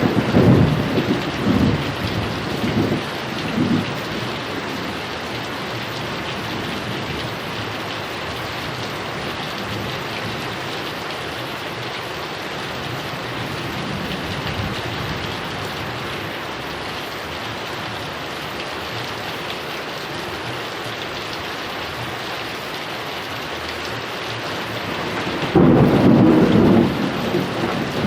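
Heavy rain falling steadily, with rolls of thunder rumbling at the start and again near the end.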